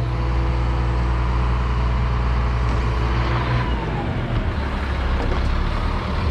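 A heavy engine running steadily with a low, even drone. Its steady tone breaks up into a rougher noise a little under four seconds in.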